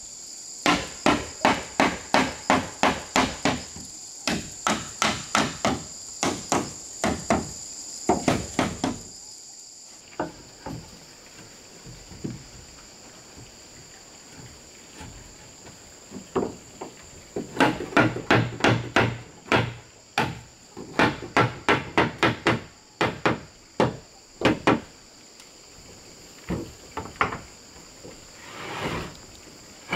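Hammer striking wood in quick runs of blows, about three a second, with a pause of several seconds in the middle and a few scattered blows near the end. A steady high-pitched insect drone runs underneath.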